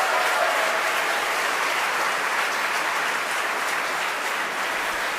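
A crowd applauding steadily just after Falcon 9 stage separation is confirmed.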